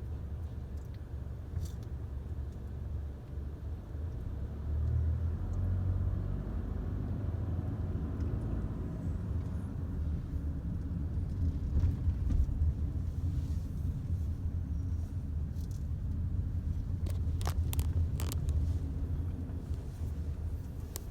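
Mack LEU refuse truck's CNG engine running with a steady low rumble that grows louder about five seconds in. A few sharp knocks come near the end.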